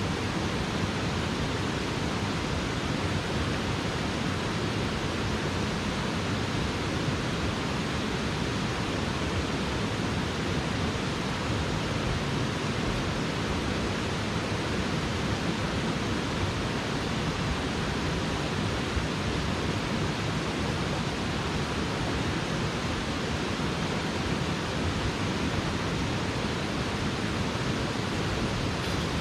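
Steady rushing of a mountain headwater stream, an even noise with no change.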